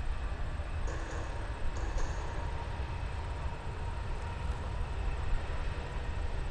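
Boeing C-17 Globemaster III's four turbofan engines running at high power for a maximum-effort takeoff: a steady jet rumble with a faint whine over it.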